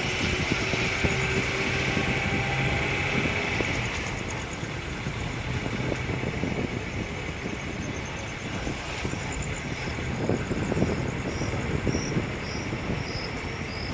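Vehicle noise: a steady rumble of passing traffic, with faint repeated high chirps in the second half.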